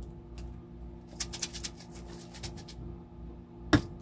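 Microwave oven running with a steady low hum, counting down its last seconds of cooking. A few faint clicks come in the middle and one sharp click near the end.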